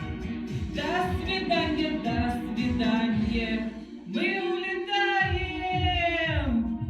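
Song with a backing track: voices singing two long held phrases, the second sliding down at its end, over a steady low beat.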